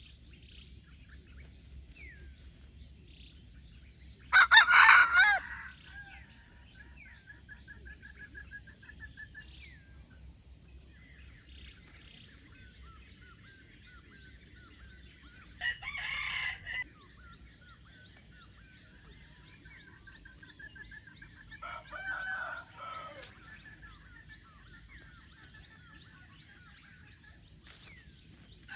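A rooster crows three times: loudest about four seconds in, then two quieter crows around the middle and later. A steady high insect buzz runs throughout, with faint trilling bird calls.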